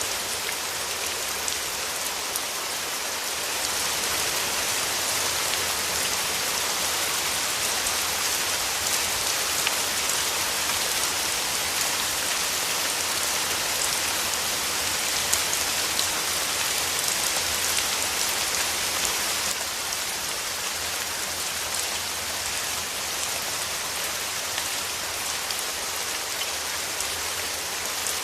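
Steady rain falling, a dense hiss of countless drops with fine individual ticks. It swells slightly a few seconds in and eases back about two-thirds of the way through.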